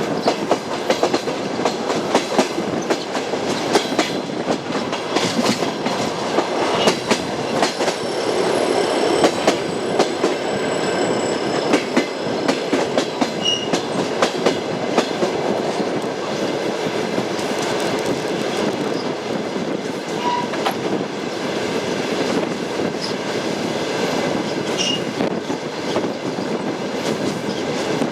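Passenger train's wheels clicking over rail joints on jointed track, the clickety-clack over a steady running rumble, with a few brief wheel squeaks. The clicks come thick in the first half and thin out later.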